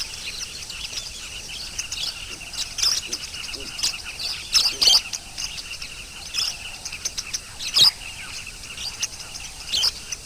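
Lovebirds (Agapornis) calling: sharp, high chirps at irregular intervals over a steady background of twittering.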